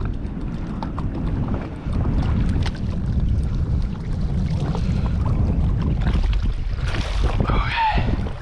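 Wind buffeting the microphone over sea water around a jet ski, with scattered sharp knocks. A short gliding voice sound comes near the end.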